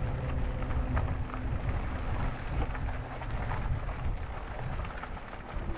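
Wind buffeting the microphone as a steady low rumble, with a faint steady hum underneath.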